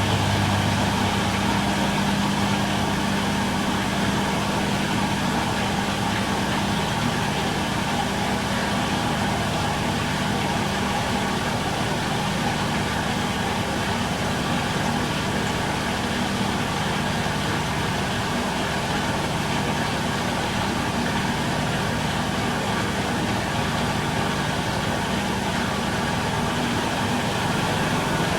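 Miele Little Giant PWM507 commercial washing machine in its final spin at 1200 rpm: a steady hum and whir of the drum and motor at high speed, with a constant low drone. A deeper tone drops out about a second in.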